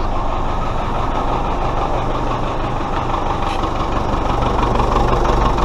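Ford Ranger's 3.0 turbodiesel engine idling steadily, freshly started.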